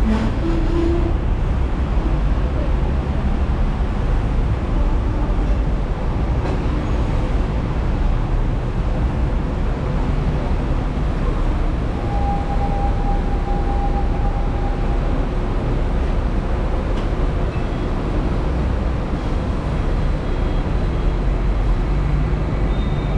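Hong Kong double-decker tram running along its rails, a steady rumble of the motors and steel wheels. A faint whine sounds for a few seconds around the middle.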